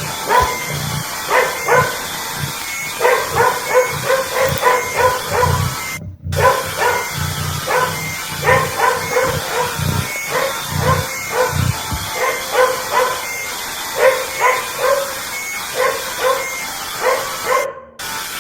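Dog barks and yips, with cat meows, repeated rapidly over and over as the alarm sound of a mock emergency alert. The track cuts out briefly twice, about six seconds in and near the end.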